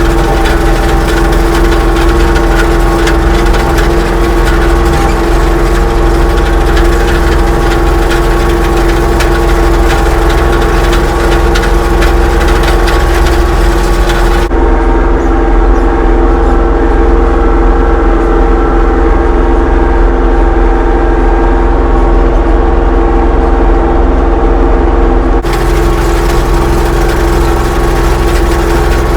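Tractor engine running steadily at a constant speed, as when mowing hay; for about ten seconds in the middle it sounds duller and more muffled.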